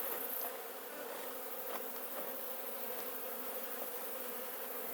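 Honeybees from an opened hive humming steadily as they fly around it, with a few faint clicks.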